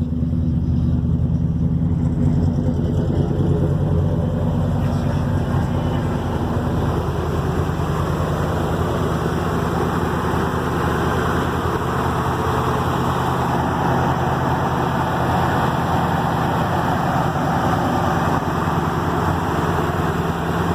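1977 GMC squarebody pickup's engine idling steadily through its exhaust, with a rougher, hissier edge to the sound from about six seconds in.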